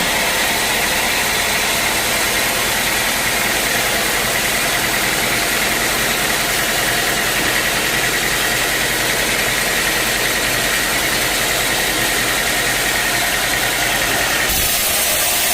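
Sawmill machinery running steadily under power: a dense, even engine-driven noise with a constant high whine. The sound changes character about a second before the end.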